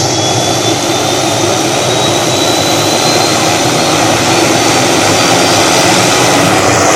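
Helicopter starting up: a steady loud engine rush with a thin high whine that slowly rises in pitch as it spools up, growing slightly louder.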